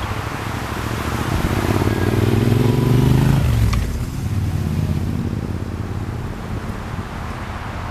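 A motor vehicle's engine passing close by, its pitch rising to the loudest point about three seconds in and then falling as it goes past, over steady wind noise.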